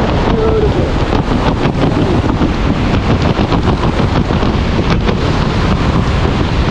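Steady loud wind rushing over the camera microphone during a tandem skydive.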